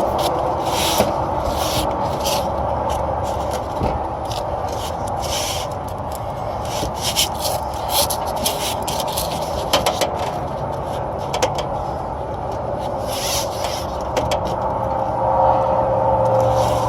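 Intermittent rubbing and scraping from hand work on the copper line set, irregular short strokes over a steady background hum.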